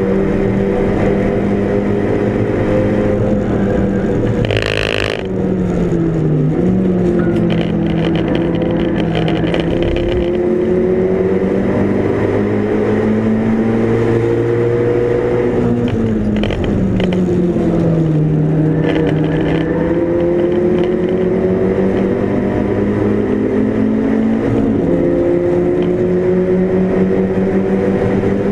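A Mk5 Volkswagen Golf GTi race car's turbocharged four-cylinder engine running hard at racing speed. Its pitch climbs steadily through the gears and drops sharply under braking and downshifts three times, with a short sharp burst of noise about five seconds in.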